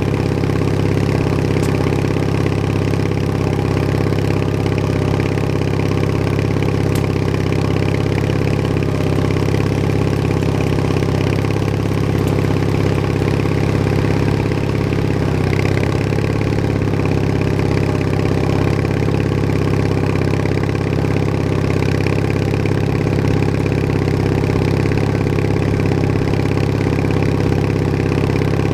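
Bolens HT20 garden tractor's engine running steadily, with a brief dip in pitch about halfway through.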